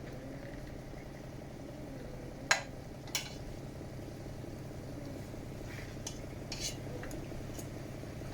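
Cooking utensil clinking against a pan while chicken is stirred and sautéed: two sharp clinks about two and a half and three seconds in, a few lighter ones later, over a steady low hum.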